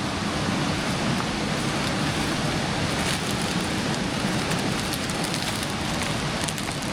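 Steady rushing of a mountain creek, an even hiss of flowing water.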